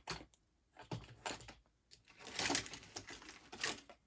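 Light clicks and taps of hard plastic action figures being handled, swapped and set down on a surface, with a few short rustles.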